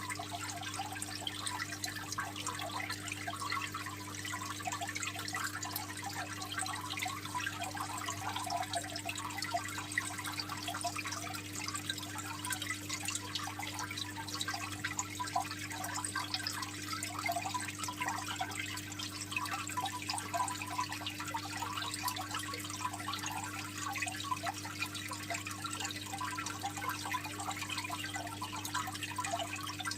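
Aquarium water trickling and splashing steadily from a filter outflow into the tank, over a steady low hum.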